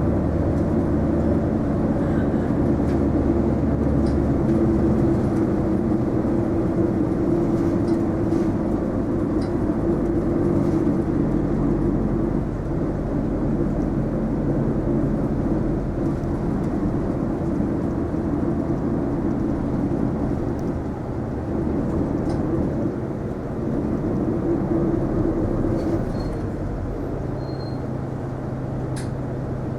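Isuzu Erga non-step city bus heard from inside the cabin: steady diesel engine drone with road noise. The engine note shifts about five seconds in and again near the end.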